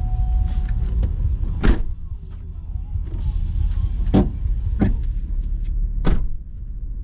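Hummer H2's V8 engine running with a steady low rumble heard inside the cab, with four sharp knocks spread through, the loudest about two seconds in and near the end.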